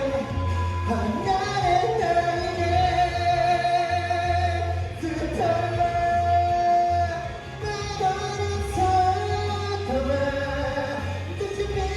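A singer performing a pop song with accompaniment, holding long notes over a pulsing bass line.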